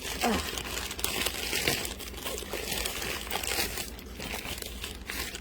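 Plastic packaging bag crinkling and rustling as it is handled, in irregular crackles.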